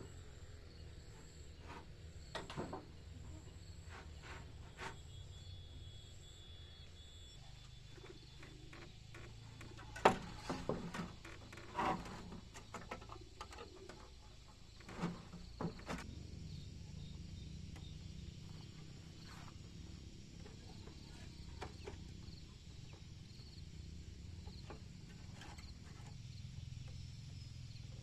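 Outdoor ambience with a steady low hum and faint insect-like high tones, broken by a run of sharp knocks and clicks about ten to sixteen seconds in, the loudest knock about ten seconds in.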